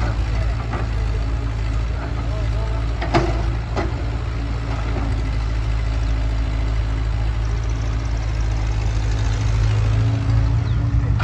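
Heavy diesel engine running steadily at a low, even drone, with a sharp knock about three seconds in and another just before four seconds.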